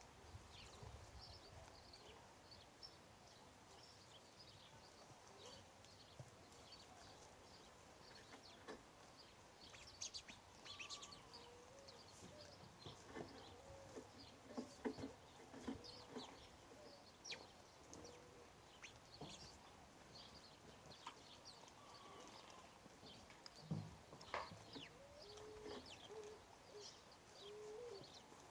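Faint birdsong: many short high chirps from several birds throughout, with lower, rounded calls coming in around the middle and again near the end.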